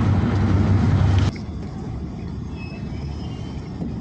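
Train running noise, a loud low rumble that cuts off abruptly about a second in, giving way to a quieter rumble with a few faint high tones.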